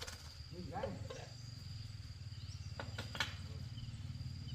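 A steady high insect trill over a low, even hum, with a few sharp clicks about three seconds in.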